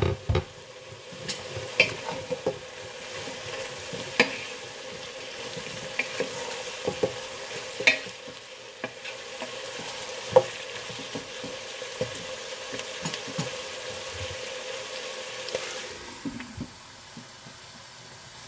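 Sliced beets and onions sizzling as they fry in oil in a pot, stirred with a wooden spoon that knocks against the pot now and then. The sizzle dulls near the end once the lid is on.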